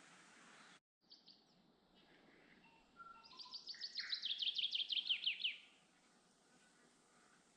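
A songbird singing a rapid run of short, downward-sweeping notes that grow louder over about two and a half seconds, after a few softer calls. Before it, a steady hiss cuts off suddenly under a second in.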